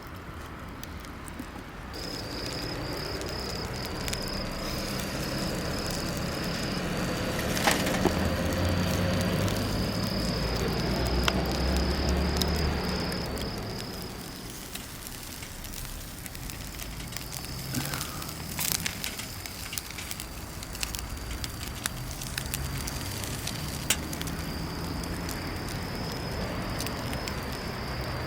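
Campfire in a small fire stand crackling, with scattered sharp pops, over a steady high insect trill. A low rumble swells and fades around the middle.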